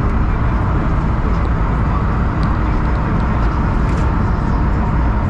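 Steady engine drone and road noise inside a BMW E36 cabin while driving.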